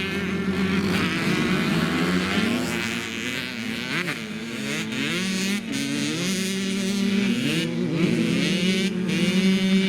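Dirt bike engine revving, its pitch climbing and dropping several times as the throttle opens and closes.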